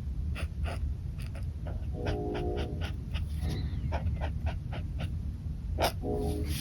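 Pen nib scratching across paper in many short strokes, the loudest near the end. Twice, about two seconds in and again near the end, a brief pitched whine sounds over it, above a steady low hum.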